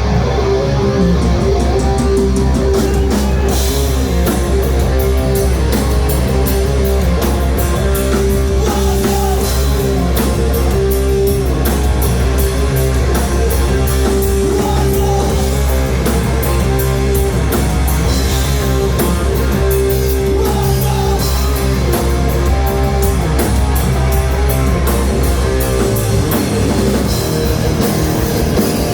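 Live heavy rock band playing: distorted electric guitars over bass and a drum kit with constant cymbal hits, loud and dense. The lowest bass notes drop away a few seconds before the end.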